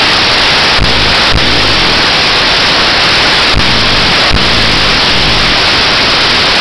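Loud, steady static-like hiss with no clear tone in it, broken by a few very brief dropouts.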